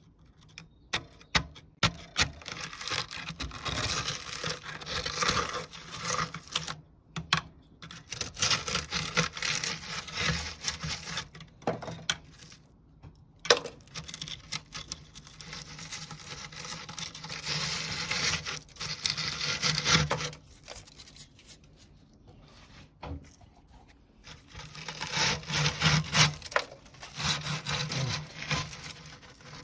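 Scraping and rasping at hard limescale in an espresso machine's boiler, in repeated bouts of a few seconds with sharp clicks and knocks between them.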